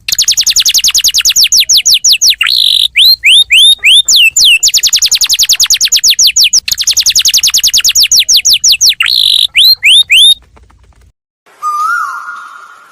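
Bird calls: a loud, fast run of high, downward-sweeping whistled notes, about eight a second, broken by a few hooked notes. The run stops about ten seconds in. Near the end a single lower call rises and falls.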